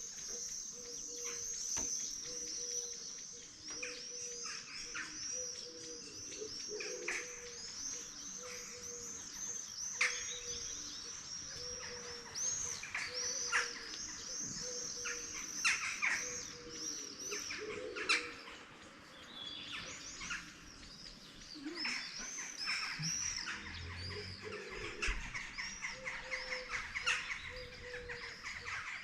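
Morning chorus of several songbirds chirping and singing busily with high, rapid notes, with a lower short call repeated steadily underneath and a few sharper, louder calls standing out.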